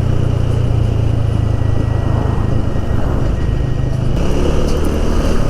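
Motorcycle engine running steadily at road speed, a low hum under heavy rushing wind and road noise on the helmet-mounted microphone.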